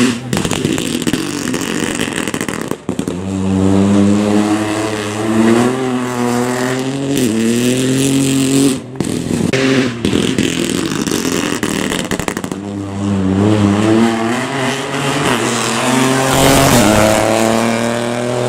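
Rally car engine accelerating hard, revs climbing and dropping back at each upshift through several gears. There are two such runs, the second starting about twelve seconds in.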